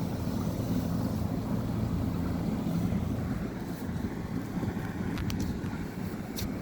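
Wind buffeting the microphone: a steady low rumble, with a few short clicks near the end.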